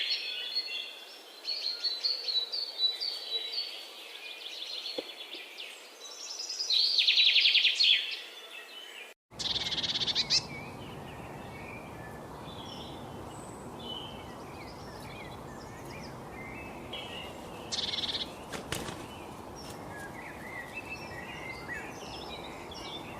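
Wild birds singing: a loud, buzzy, rapid trill repeated in phrases, with softer twittering between them. About nine seconds in, the sound cuts abruptly to another recording, where many short chirps sound over a steady hiss and two brief buzzy trills stand out.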